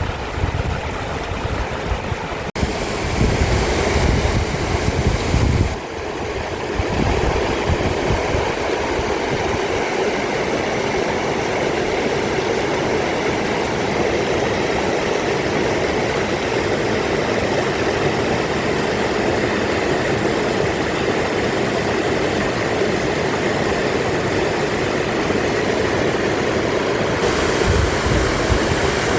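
Mountain valley stream rushing steadily over rocks, with wind buffeting the microphone in low gusts for the first few seconds.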